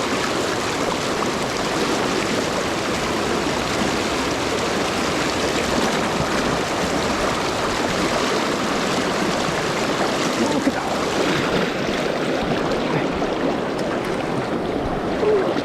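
River water rushing steadily over the rocks of a mountain stream's shallows.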